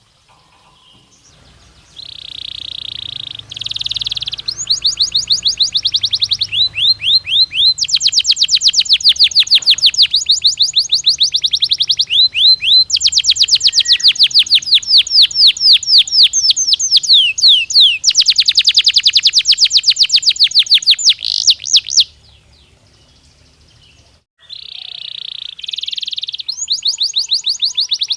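Domestic canary singing long rolling trills of fast repeated notes, phrase after phrase, with a break of about two seconds near the end before the song starts again.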